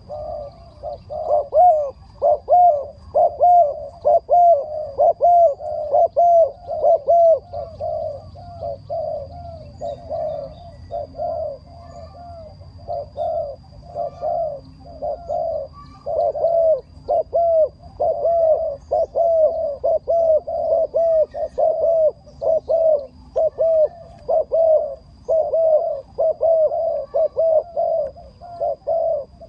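Birds calling: short arched notes repeated in quick succession, about three a second, without pause.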